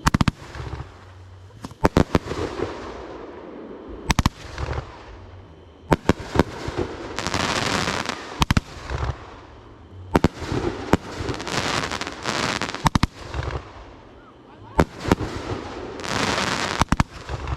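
Fireworks going off: a run of sharp bangs, several in quick pairs or clusters, with stretches of crackling after some of them.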